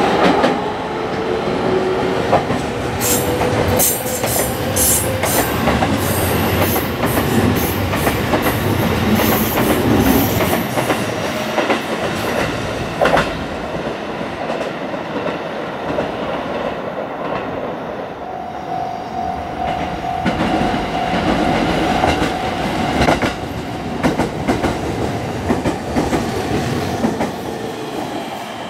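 JR Central stainless electric multiple-unit commuter trains running through the station: wheels clattering over rail joints with a steady rumble, a run of sharp clicks about three to six seconds in, and a steady high tone lasting a couple of seconds a little past the middle.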